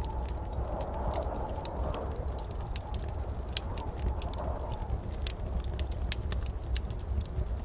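Wood fire crackling in a fireplace: irregular sharp pops and snaps over a low steady rumble, with one louder pop about five seconds in.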